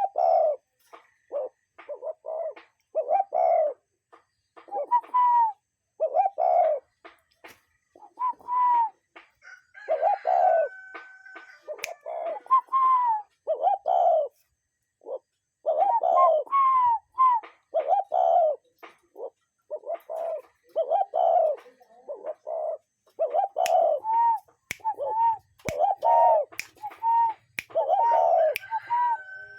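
A dove cooing: a long run of short, repeated coos, some notes arching higher, with a short pause about halfway through. Faint chirps from other birds come through in the background.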